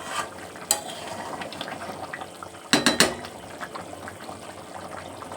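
Chicken kosha sizzling in a pan as the last of its gravy cooks down, with a spoon stirring and knocking against the pan: one sharp knock just under a second in and a quick run of louder knocks about three seconds in.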